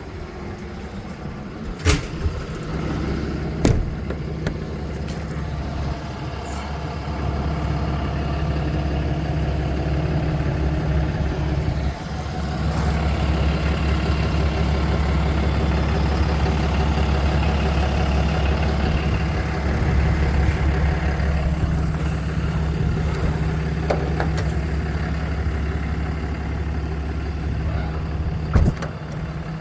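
Dodge 5500 service truck's engine idling steadily, its hum getting louder about twelve seconds in. A few sharp clicks or knocks come twice in the first few seconds and once near the end.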